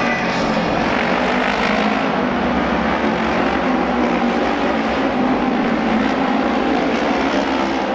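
Japanese auto race motorcycles running at speed on the oval track, giving a steady, unbroken engine drone.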